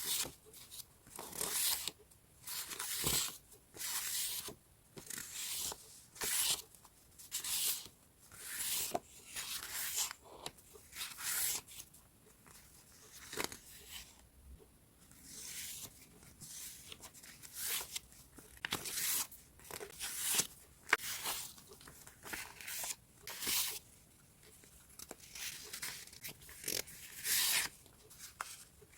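Sheets of decorative scrapbooking paper being handled, rustling and crinkling in short bursts about once or twice a second, with the odd light tap.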